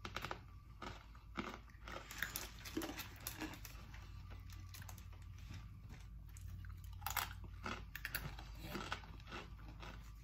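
People biting and chewing thin, crunchy baked potato sticks: scattered small crunches, with a louder cluster about seven seconds in.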